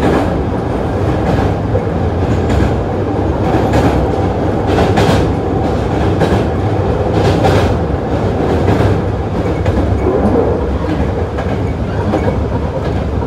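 Hankyu 8000 series electric commuter train running at speed, heard from inside the passenger car: a steady low rumble of wheels on track with irregular clacks over rail joints.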